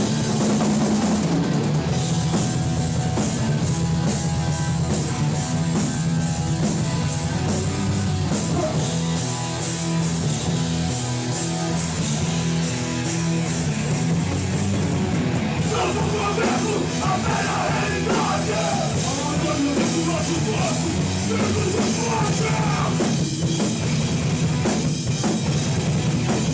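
Hardcore punk band playing live: drum kit with distorted electric guitars and bass, loud and continuous.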